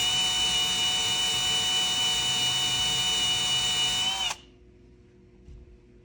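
Kobalt cordless drill with a 1/2-inch bit running steadily, boring into a wooden board behind the drywall. Its steady whine stops abruptly a little over four seconds in.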